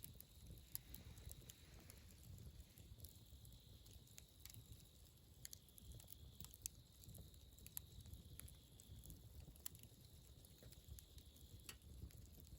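Wood fire crackling faintly, with scattered sharp snaps every second or so over a low rumble.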